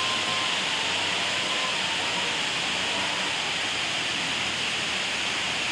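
Steady rushing of water at an even level.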